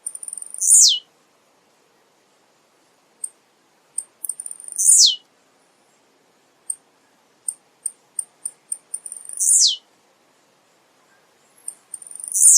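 Male blue-black grassquit (tiziu) singing: scattered short, very high chip notes, then its loud buzzy song phrase that slides steeply down in pitch, repeated about every four seconds, three times, with a fourth starting near the end.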